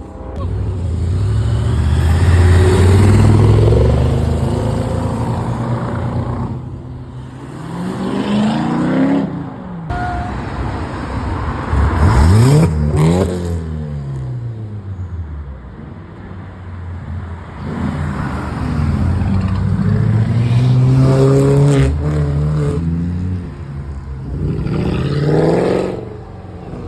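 Modified cars accelerating hard past one after another, about five in turn, each engine revving up in pitch and then fading as it goes by; the sharpest rev comes about twelve seconds in.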